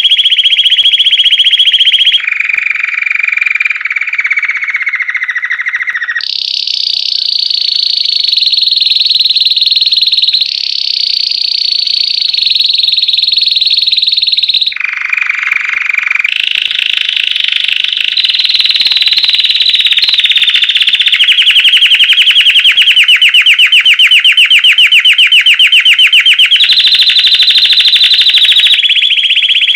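Belgian canary singing continuously in a series of trilled phrases. Each phrase is held for a few seconds at one pitch before the song jumps to a higher or lower one. From about 20 seconds in, it becomes a fast, evenly pulsed trill.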